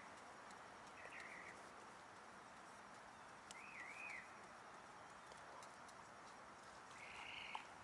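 Near silence with a few faint bird chirps; one, about halfway through, is a short wavering whistle.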